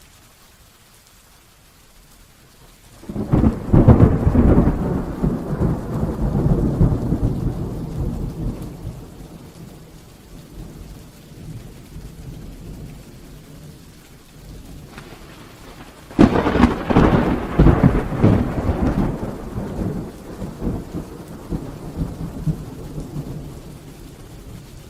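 Rain falling steadily, broken by two rolls of thunder: the first cracks in about three seconds in and rumbles away over several seconds, the second strikes about two-thirds of the way through and rolls off likewise.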